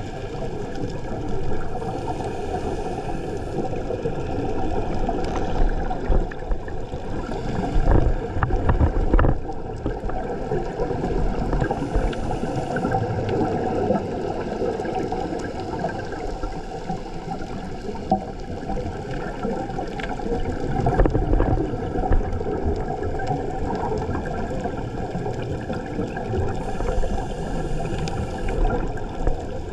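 Steady, muffled water noise heard underwater, swelling louder a few times.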